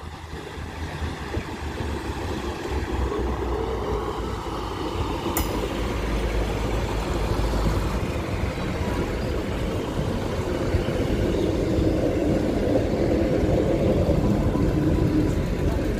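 East Midlands Trains diesel multiple unit passing close by, its underfloor diesel engines running and its wheels rumbling on the rails, growing louder as it comes alongside. A brief sharp high-pitched sound comes about five seconds in.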